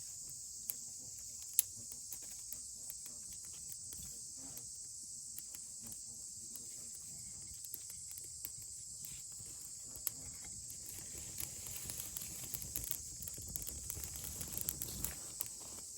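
Steady high-pitched chorus of summer insects. Over it come scattered clicks and soft rustling, which grow heavier in the last few seconds.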